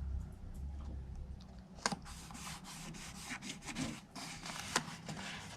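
Paper being pressed and rubbed down by hand onto a cardstock pinch box, with a sharp click about two seconds in and then irregular rustling and crinkling of the paper.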